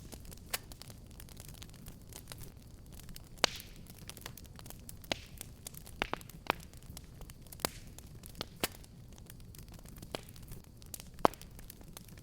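Wood fire burning with a steady low rumble and irregular sharp crackles and pops, a few loud ones standing out.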